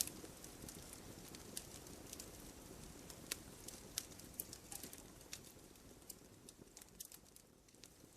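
Wood fire burning in a fireplace: faint, soft crackling with scattered, irregular sharp pops from the logs, a little quieter near the end.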